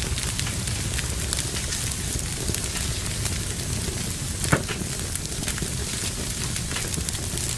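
Wood fire burning in a fireplace: steady crackling over a low rumble of flames, with one louder pop about four and a half seconds in.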